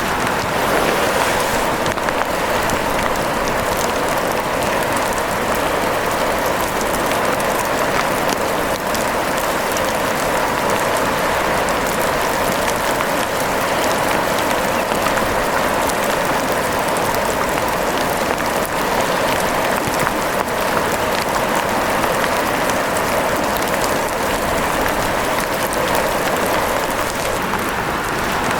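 Steady rain falling, an even hiss with many scattered sharp ticks.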